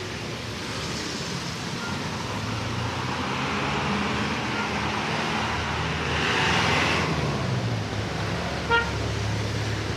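Street traffic. A vehicle passes with a swell of road and tyre noise about six to seven seconds in, and a short single car horn beep sounds near the end.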